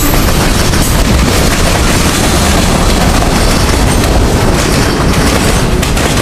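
Freight train cars rolling past at close range: a loud, steady rumble of wheels on the rails, heaviest in the low end.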